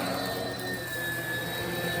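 Oreck XL Commercial upright vacuum cleaner running over carpet: a steady motor drone with a high, even whine.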